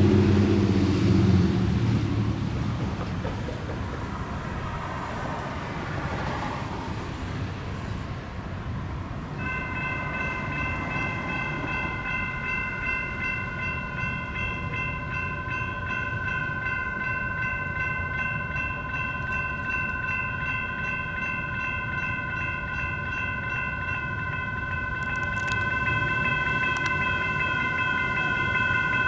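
Railroad crossing's US&S E-Bell electronic bell starts ringing about a third of the way in and keeps ringing steadily over road traffic noise. A low pitched tone sounds briefly at the very start.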